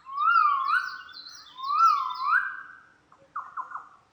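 A bird calling: two clear whistled phrases of swooping, rising-and-falling notes, then a few short, quieter notes near the end.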